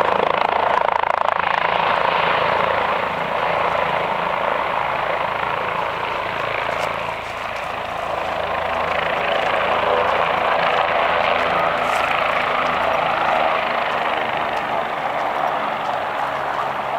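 Medical helicopter's rotor and turbine running loud and steady at close range, with a brief dip in loudness near the middle.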